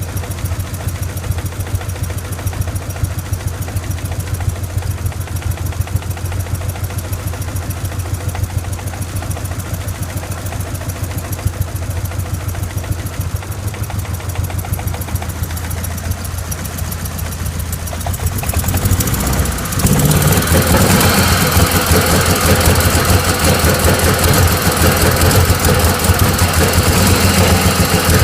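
Nissan SR20DET turbo four-cylinder running roughly with its number four cylinder dead after an engine blow-up, an uneven idle. About two-thirds of the way in it becomes louder and harsher and stays so.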